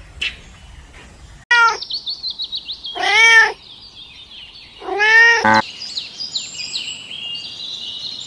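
A cat meowing: a short call, then two longer meows that rise and fall in pitch, about three and five seconds in, over a steady run of high twittering chirps.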